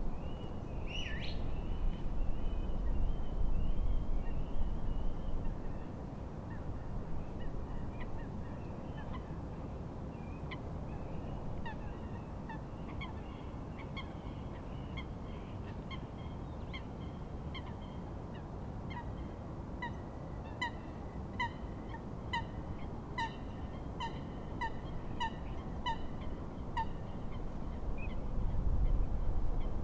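Steady wind and lake waves, with birds calling over them. Midway a bird gives a regular run of short calls, about one and a half a second, for about eight seconds.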